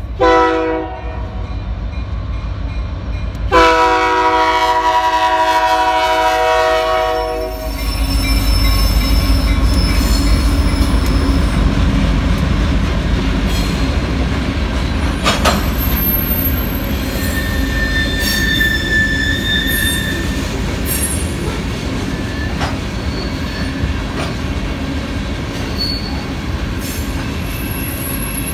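Diesel freight locomotive horn sounding a short blast, then a long blast of about four seconds, as the train nears a grade crossing. The locomotives and a string of covered hopper cars then rumble past close by, with a few brief high wheel squeals.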